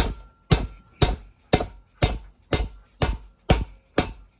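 Hammer blows struck in a steady rhythm, about two a second, nine in all, each with a short ring after it.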